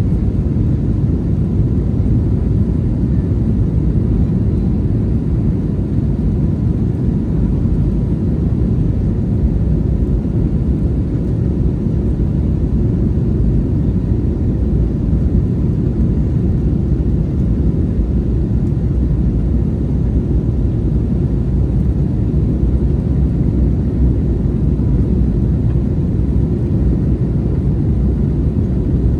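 Steady low rumble inside the cabin of an Airbus A321neo airliner, heard from a rear window seat, with no change in pitch or level.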